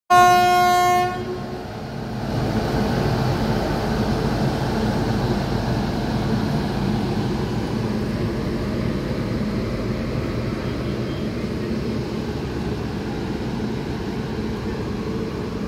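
Electric locomotive horn sounds one blast about a second long. Then comes the steady low rumble of passenger coaches rolling along the track as the express train pulls out.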